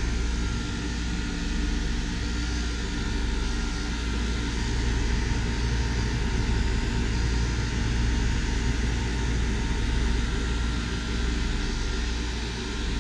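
Mabru MPS 05DC 12-volt DC water-cooled heat pump running: a steady mechanical drone from its compressor and fan, with a low hum underneath.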